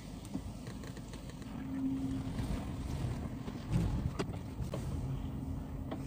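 Low steady rumble with wind on the microphone, a faint hum and a few scattered clicks, swelling briefly about two-thirds of the way in.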